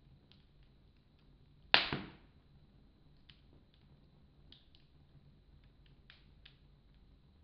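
Wood fire in a fireplace crackling faintly, with one loud, sharp pop about two seconds in.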